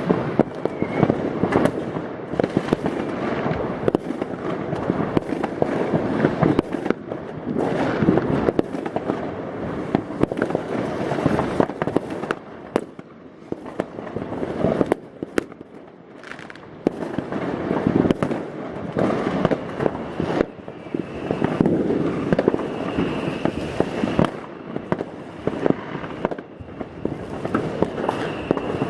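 New Year's Eve fireworks over the neighbourhood: a dense, continuous barrage of bangs and crackling from many fireworks going off at once. It thins out briefly about halfway through, then builds again.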